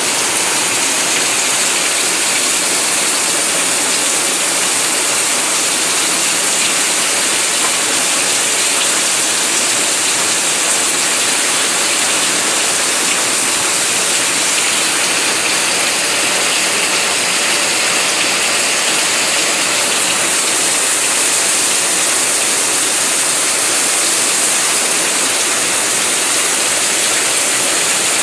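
Rain falling steadily, a loud, even hiss that does not let up.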